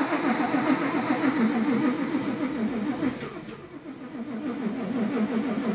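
Supercharged, cammed Ford Coyote V8 cranking over on the starter with a rhythmic, wavering whine as it struggles to catch. The engine is hard to start and keeps dying, which the owner suspects is flooding or fuel delivery. The cranking sags a little past the middle, picks up again, and stops right at the end.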